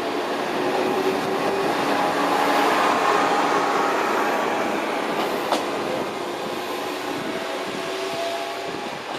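MRT300-series diesel railcar pulling out of the station, its engine and running gear droning with steady engine tones. Loudest about three seconds in, then slowly fading as it moves away.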